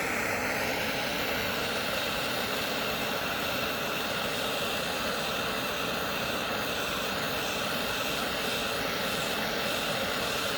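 Propane torch flame burning with a steady, even rushing noise as it heats the muffler pipe to melt aluminum rod onto it.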